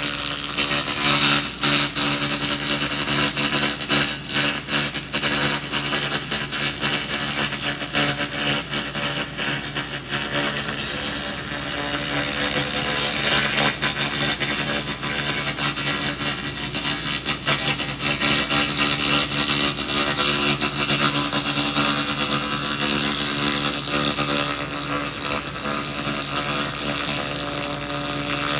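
A 2000-watt SFX handheld laser rust remover running continuously, its beam crackling and buzzing as it ablates rust off metal, over the steady hum of the laser unit.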